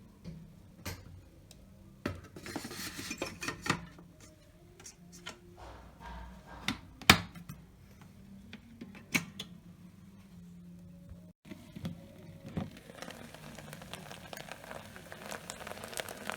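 Kitchen utensils clinking and knocking against dishes and a pot in scattered, irregular taps, with one louder knock about halfway through, over a faint low hum.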